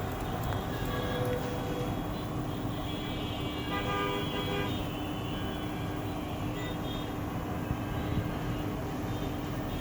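Road traffic noise with vehicle horns tooting; a horn with several tones sounds about three to five seconds in, over a steady hum.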